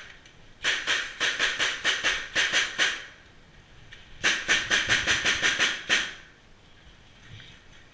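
Airsoft gun firing on full auto: two long strings of rapid shots, the second starting about four seconds in.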